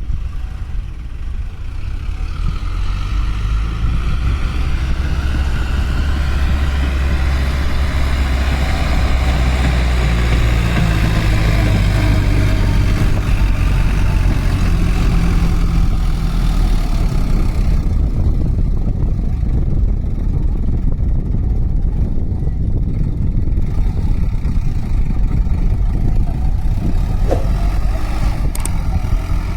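Heavy diesel engine of a tractor or backhoe loader running steadily, working under load with some rise and fall in revs.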